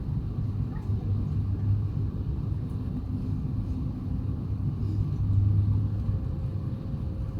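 Steady low rumble in the cabin of an Airbus A350-900 on the ground after landing, with a constant low hum from its Rolls-Royce Trent XWB engines at idle as it taxis in.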